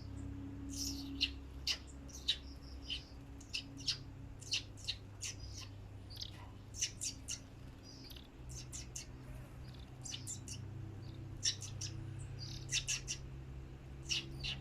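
Oriental magpie-robin (kacer) giving short, sharp chirps at irregular intervals, over a steady low hum.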